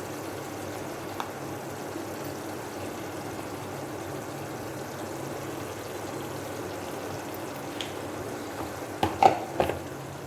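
Spice paste sizzling and bubbling steadily in hot oil in a cooking pan as chilli powder goes in. Near the end, a few short clinks of a spoon against the pan.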